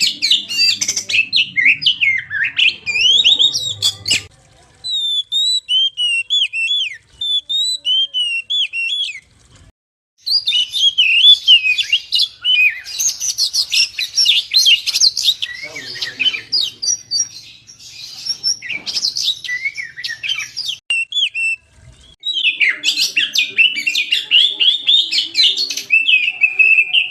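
Oriental magpie-robin (kacer) singing a fast, varied song of whistles, trills and chirps. It comes in long runs broken by a few short pauses.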